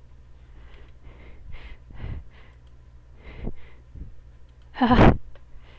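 A person's soft breaths and sighs, then one short, loud voiced sound about five seconds in.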